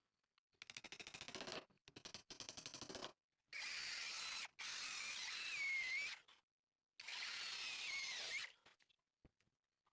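A power tool working wood in bursts: first a run of rapid clicking, then two steady spells of running, each with a whining tone that wavers in pitch.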